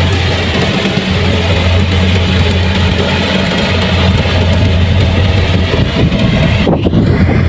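Diesel engine of a Kubota rice combine harvester running steadily, with a strong low hum under a wide machine noise. The high end dips briefly near the end.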